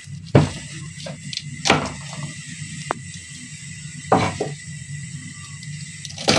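Kitchen knife knocking down on a cutting board while cutting garlic cloves: about five separate knocks, a second or so apart, over a low steady hum.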